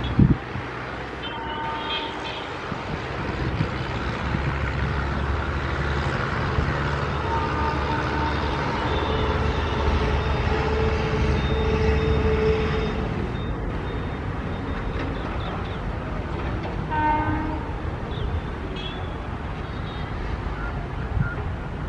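Indian Railways express train running past: a low rumble that builds to a peak about halfway through and then eases off, with short locomotive horn toots near the start and again about two-thirds of the way in.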